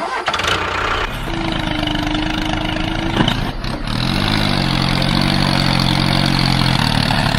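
An engine or motor running steadily. A steady tone is heard through the first few seconds, then a low, slightly wavering hum from about four seconds in.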